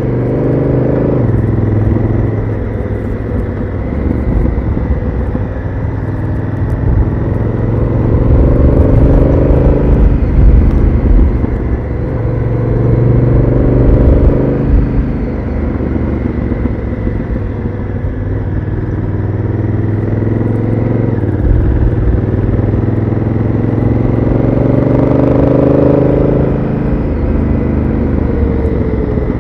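Honda Africa Twin CRF1000L's parallel-twin engine through its stock exhaust, rising in pitch under acceleration and dropping back again several times over, with a steady low rumble underneath.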